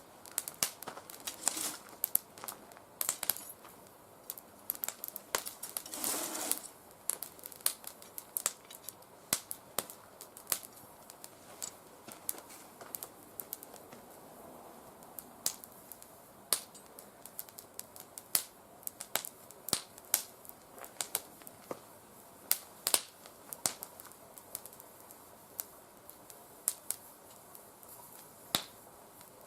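Oak twigs burning in a mesh fire pit, crackling with irregular sharp pops and a denser burst of crackling about six seconds in. The oak was cut only months before and is not fully dry.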